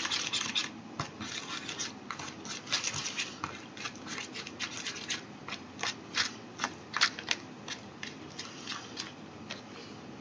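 Small plastic spoon scraping and clicking in a plastic candy-kit tray, stirring powder and water into a stiff white dough, in quick irregular strokes.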